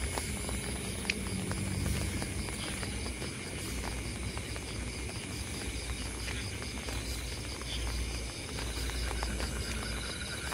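Steady rain falling, with scattered sharp drip taps, under a chorus of night insects: a continuous high trill and a fast, evenly pulsing chirp.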